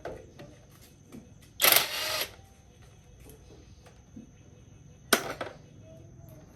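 Workshop repair sounds: scattered clicks and knocks of tools and metal parts, with two short, loud, hissing bursts of noise, about two seconds and about five seconds in.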